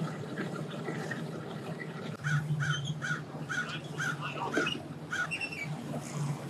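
A bird, most like a crow, giving a series of about seven harsh calls, roughly two a second, over a steady low engine hum.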